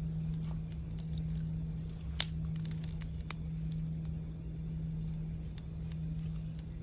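Campfire crackling, with scattered sharp pops, the loudest about two seconds in and again near the end, over a steady low drone.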